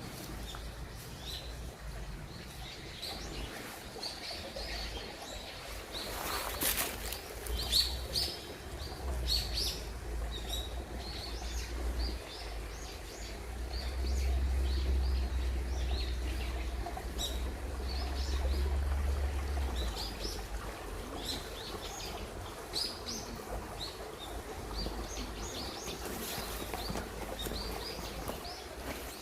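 Small birds chirping and calling in short, scattered notes throughout, with a low rumble underneath that swells in the middle.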